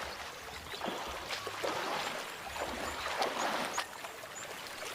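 Water splashing and sloshing irregularly in a shallow river, with a few faint high chirps in the middle of the clip.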